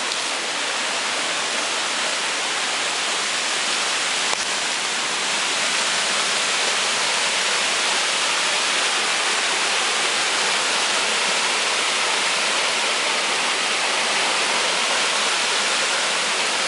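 Waterfall on a mountain creek: a steady, loud rush of falling water that grows a little louder as it draws nearer.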